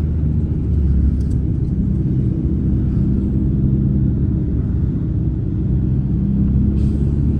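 Steady low rumble and hum of a car on the move, heard from inside the cabin.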